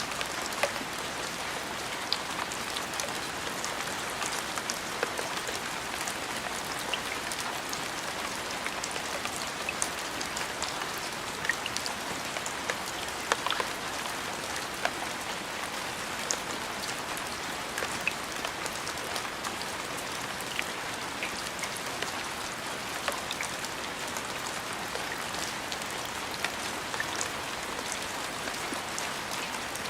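Steady rain falling on a surface, an even hiss with many scattered sharper drop ticks throughout.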